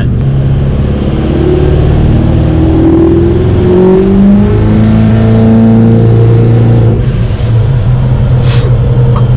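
Built 6.3-litre Powerstroke V8 turbo-diesel of a 2005 Ford F-250 accelerating hard, the engine note climbing, with a high turbo whistle rising in pitch as the turbo spools up. The whistle holds at the top and then falls away about seven seconds in as the throttle comes off. The engine note dips once about four seconds in.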